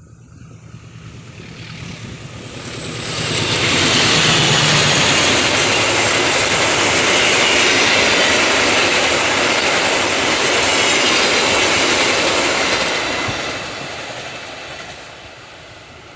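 A train passing at speed, its wheels and carriages rushing by on the track. The noise builds over the first few seconds, stays loud for about ten seconds, then fades away near the end.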